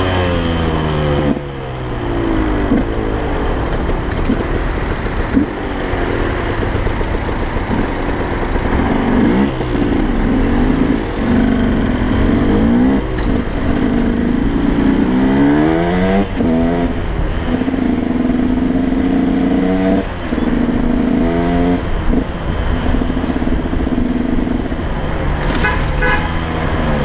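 2006 KTM 125 EXC's single-cylinder two-stroke engine on the move, its revs rising and falling again and again as it pulls through the gears, with stretches held at steady revs in the second half.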